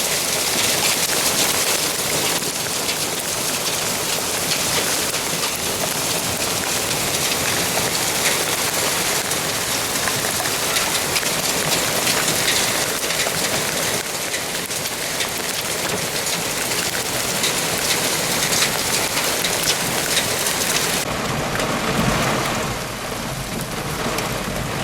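Heavy rain mixed with small hailstones pelting down: a dense, steady patter of many tiny impacts. It turns duller about three seconds before the end.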